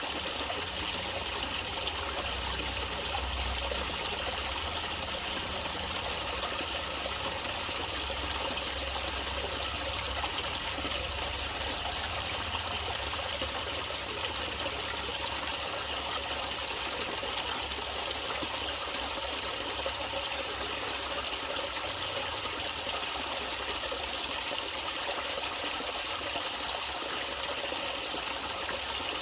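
Water trickling and running steadily, like a small stream flowing over stones.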